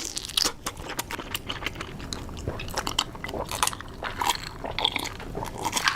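Close-miked crunching and chewing of crisp food: many sharp crunches in quick, uneven succession.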